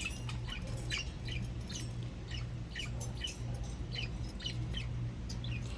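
Budgerigars chirping and squawking, many short, high chirps at an uneven pace, over a steady low hum.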